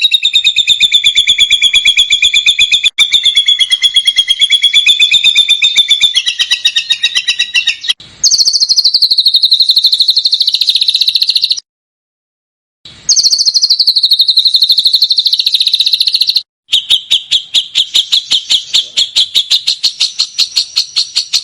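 Songbird giving long rapid-fire trills of sharp repeated notes, the fast 'tembakan' calls used to train competition songbirds. Four runs broken by short pauses, two of them opening with a falling note.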